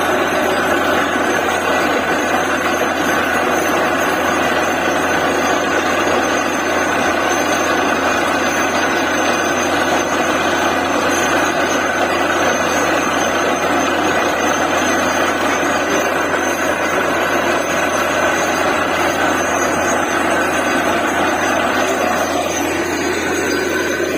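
Truck-mounted DTH borewell drilling rig running, a loud, steady machine noise. A short falling tone shows through near the end.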